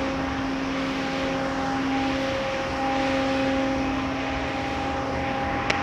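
Automatic car-wash machinery running: a steady pitched motor or pump hum over a constant hiss of spraying water. A single sharp click comes near the end.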